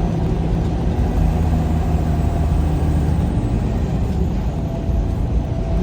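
A vehicle driving at steady speed: a low, even engine drone with road noise, heard from inside the cab.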